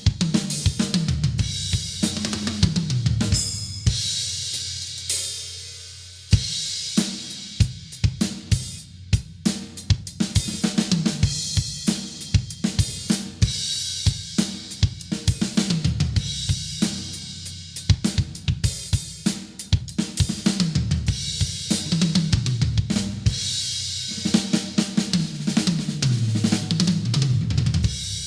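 Acoustic drum kit played continuously: kick, snare and hi-hat beats under cymbal wash, with a big crash about six seconds in. Several fills step down in pitch across the toms, near the start and again towards the end.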